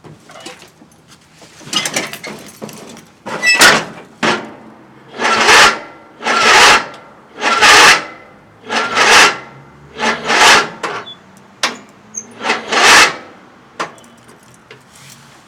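A run of about ten rubbing or scraping strokes, each swelling and fading, a little over a second apart, then stopping.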